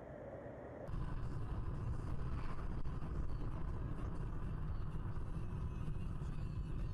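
Steady low rumble of a moving vehicle, starting abruptly about a second in.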